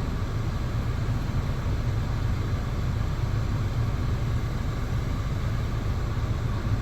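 2004 Honda Accord engine idling steadily with the ventilation blower pushing air, a low even hum with a hiss over it.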